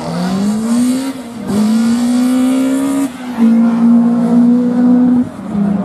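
Rally car engine at full throttle accelerating through the gears: the pitch climbs, drops at an upshift about a second in and again about three seconds in, then holds high before falling off near the end as the driver lifts.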